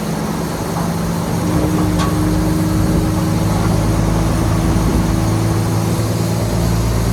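Heavy diesel engine of earthmoving machinery running steadily, growing louder over the first second or so and then holding an even pitch.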